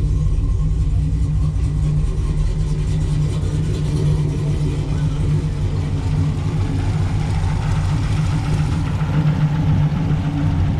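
A car engine idling steadily close by, a loud low even note with no revving.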